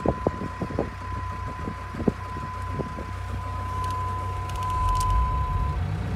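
Jeep Liberty engine idling, an engine that has been stalling when put in drive. Its low running swells in loudness about two-thirds of the way through as it is given gas, with a few light clicks early on and a steady high-pitched tone over it.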